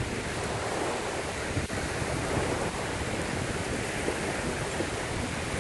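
Lake waves washing ashore in a steady rush, with wind on the microphone.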